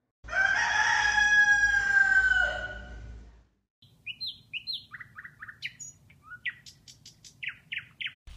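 A rooster crowing once, a single long call of about three seconds that falls slightly in pitch at the end. From about four seconds in come many short, quick bird chirps.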